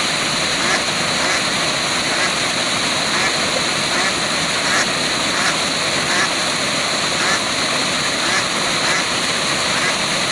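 Waterfall: a steady rush of falling water, with short animal calls recurring about once a second over it.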